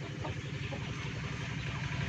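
Chickens clucking in short, faint calls over the low, steady throb of an engine that grows louder near the end.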